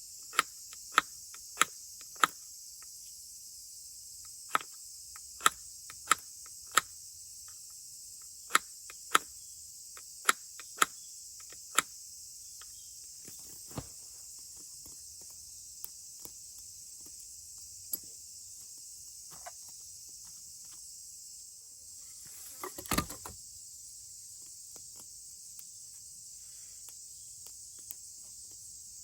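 A steady, high chorus of summer insects. Over it come a run of sharp snaps or clicks, about one a second through the first twelve seconds or so, and a short, louder rustling clatter about two thirds of the way in.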